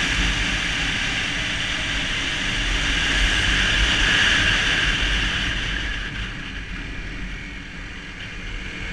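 Motorbike riding along a road: engine rumble and a steady rush of wind noise on a bike-mounted camera, easing off and growing quieter over the last few seconds.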